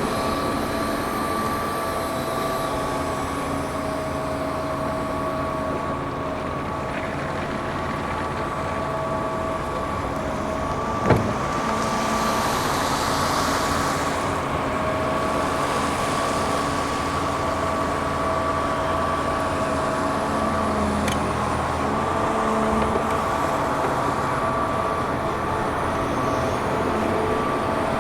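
Heavy diesel excavators running at work, their engines and hydraulics giving a steady whine. A single sharp clank comes about eleven seconds in, followed by a short hiss.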